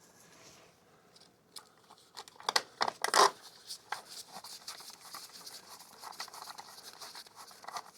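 Hand tools and metal parts being handled while a motorcycle's front sprocket cover is refitted and its bolts started: a cluster of sharp knocks about two and a half to three and a half seconds in, then a run of small irregular clicks and scrapes.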